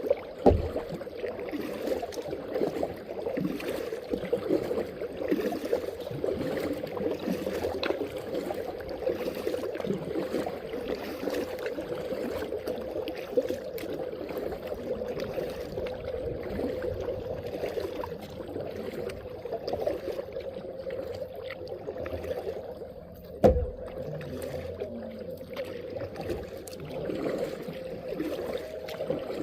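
Water swishing and lapping around a kayak as it is paddled, with a single sharp knock about 23 seconds in.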